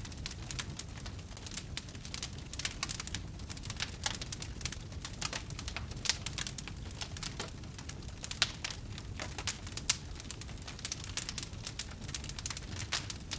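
Wood campfire burning, with a steady low rumble and many irregular sharp crackles and pops, a few of them louder.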